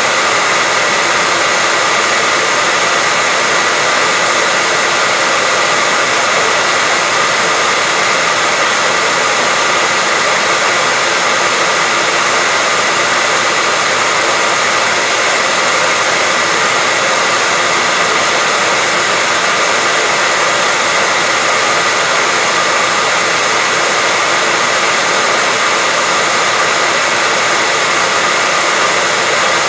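Hair dryer running steadily, a constant even rush of air with a faint motor whine, played as continuous white noise for lulling a baby to sleep.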